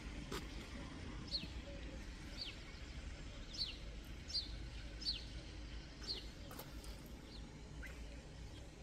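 A small bird calling in a repeated series of short, falling chirps, about one a second, over a steady low outdoor rumble.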